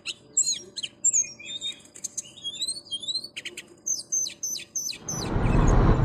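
Songbird chirping in rapid short notes and quick upward-sliding whistles. About a second before the end, a steady hum of street noise comes in under it.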